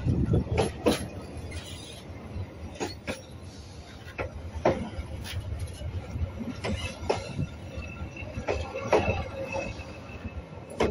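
Narrow-gauge train rolling along the track: a steady low rumble with irregular clacks and knocks from the wheels and cars, and a faint thin wheel squeal near the end.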